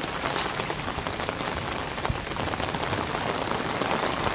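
Heavy rain falling steadily on flooded grass and standing water, a dense even hiss with close individual drop hits scattered through it.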